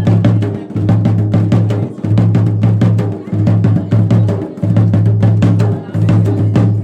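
Traditional Garhwali dhol and damau drumming in a fast, driving rhythm for a mandan ritual dance. Rapid strokes run throughout, over a deep low drum tone that returns in stretches of about a second.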